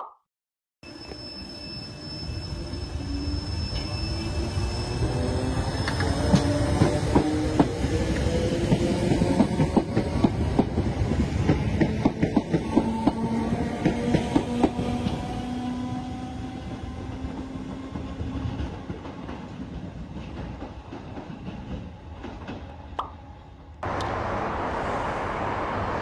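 A train accelerating past, its drive sounding as a whine that climbs steadily in pitch while the wheels click rhythmically over the rail joints, loudest in the middle and then fading away. Near the end it cuts abruptly to a steady rushing noise.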